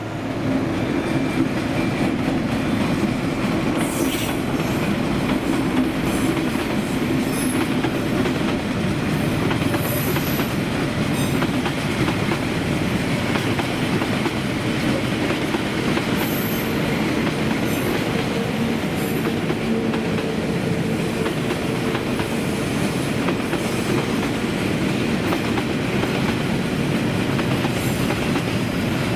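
Train running along the track: a steady rumble and clatter of wheels on rails, with a few brief faint high-pitched squeals.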